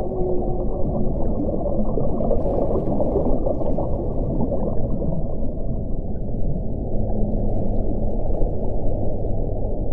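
Wind blowing as a steady low rumble, with faint held moaning tones near the start and again from about seven seconds in.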